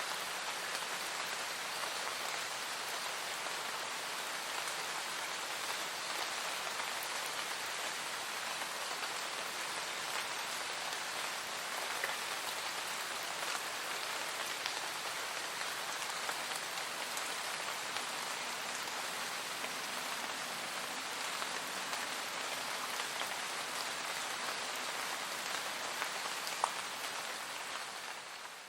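Steady rain falling, a dense even patter with scattered louder drop taps, fading out near the end.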